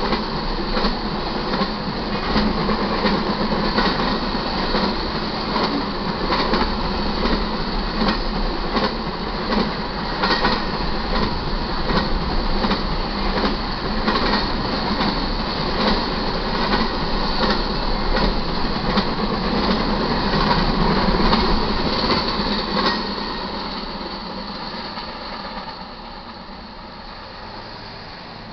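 Freight train's intermodal flatcars loaded with truck trailers rolling past, a steady rumble of wheels on rail with repeated sharp clicks. The last car goes by about 23 seconds in and the sound fades away.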